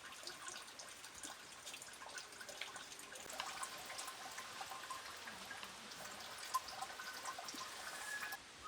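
Faint scattered clicks and light taps of chopsticks and bowls during a meal, over a steady soft hiss.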